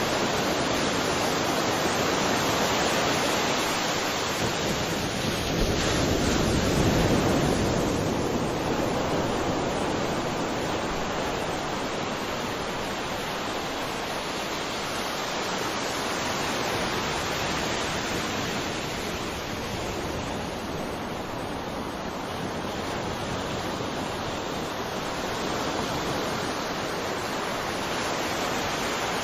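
Ocean surf: a continuous rush of waves breaking and washing in, swelling louder about six seconds in as a bigger wave comes through, then ebbing and building again more gently.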